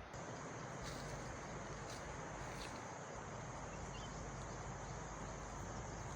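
Outdoor ambience with a steady, high insect drone and a few faint clicks.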